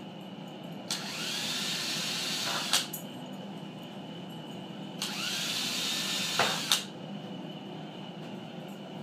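Power drill driving coarse-thread metal tapping screws through the linear rails into the MDF bed, twice. Each run lasts about two seconds, the whine rising as the motor speeds up, and ends in a sharp click as the screw seats.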